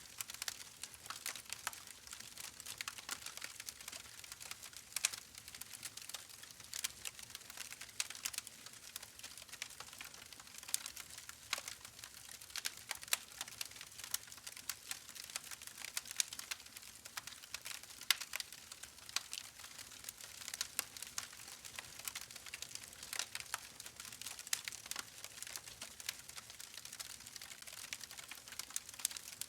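Continuous irregular crackling, dense small clicks at uneven intervals, like a soft crackle bed under the story.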